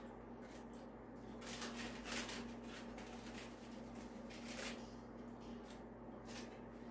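Faint scattered rustling and handling noises, a few short ones spread through, over a steady low hum.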